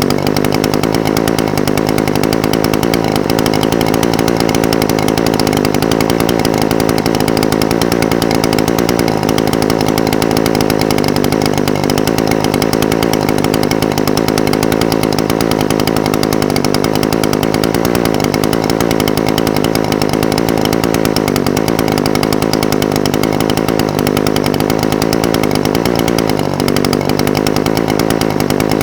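Echo SRM-420TES brush cutter's small two-stroke engine idling steadily, its pitch wavering slightly.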